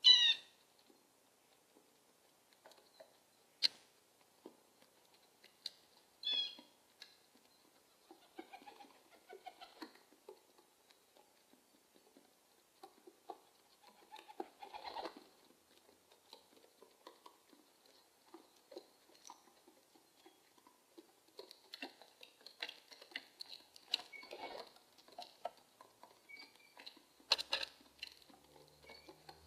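Starlings and pigeons moving about, making scattered light taps and scuffles, denser in the later part. A short, loud bird call comes right at the start and another about six seconds in.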